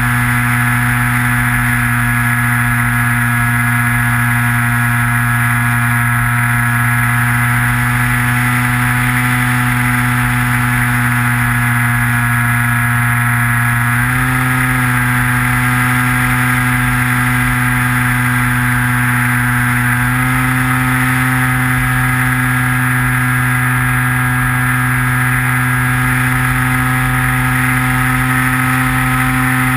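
Electric motor and pusher propeller of a Skywalker FPV model plane in flight, heard from the onboard camera: a steady whine that shifts slightly in pitch with throttle about fourteen and twenty seconds in.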